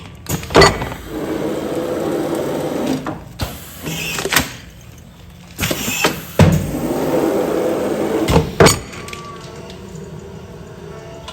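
Automatic food-container sealing machine running through its sealing cycles. Sharp clunks come in pairs about half a second apart, with a mechanical running noise between the pairs.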